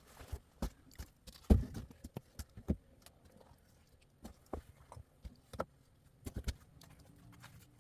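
Scattered, irregular knocks and clicks of objects being handled, the loudest about a second and a half in.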